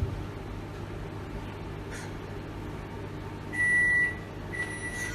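An electronic beep: one high steady tone lasting about half a second, a little over three seconds in, then a fainter tone at the same pitch running on near the end, over a low steady hum.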